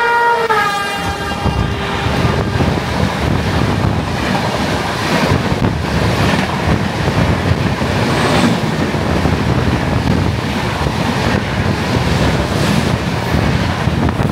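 Horn of an express train passing at speed, its pitch dropping as the locomotive goes by about half a second in. The horn fades within the first few seconds, and then the train rushes past with a steady rumble of wheels on rail and occasional clacks.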